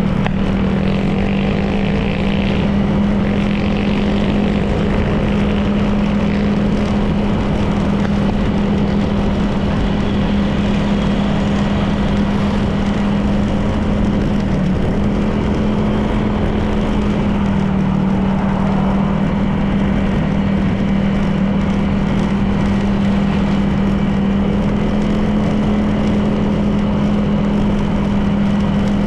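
Honda PCX 160 scooter's single-cylinder engine running at a steady cruising speed, a constant hum under wind and road noise.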